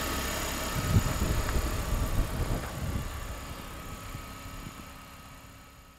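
A car engine running at idle, a steady low rumble with a few thumps in the first half, fading gradually away over the last three seconds.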